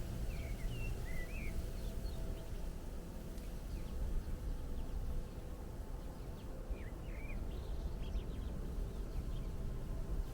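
Small birds chirping in short, twittering calls, a few near the start and another cluster about seven seconds in, over a steady low rumble.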